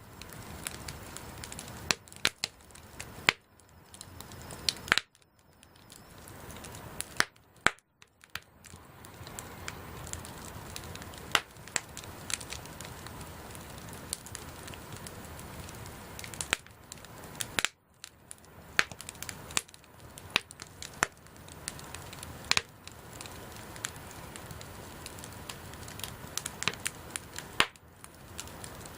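Wood bonfire burning: a steady hiss broken by irregular sharp crackles and a few louder pops.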